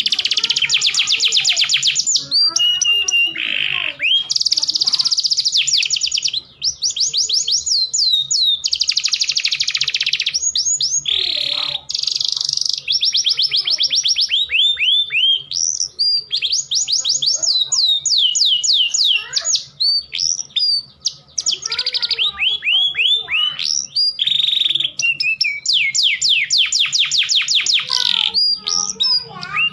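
Domestic canary song: a male in full song, running through fast rolling trills and repeated series of quick downward-sweeping notes, mixed with female canaries' calls.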